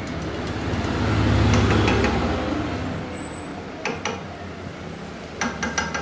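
Low mechanical rumble that swells for a second or two and then fades, followed by a few sharp metallic clinks near the end.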